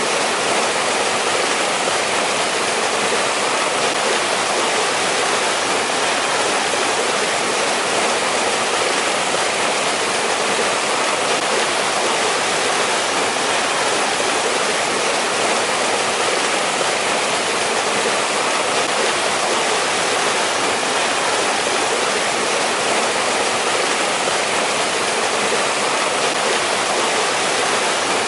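A mountain valley stream running steadily over rocks in winter: an even, unbroken rush of water with no other sounds.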